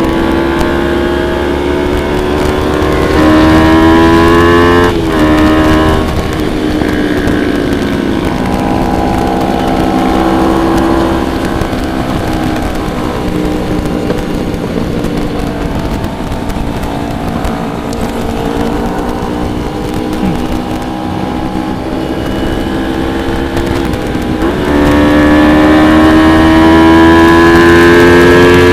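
Motorcycle engine on the move, its pitch climbing as it accelerates, dropping sharply about five seconds in, running lower and steadier through the middle, then getting louder and climbing again near the end.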